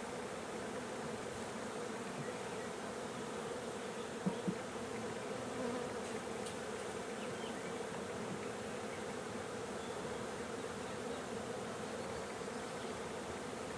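Honeybee swarm buzzing steadily around an open hive box, with two quick knocks about four seconds in.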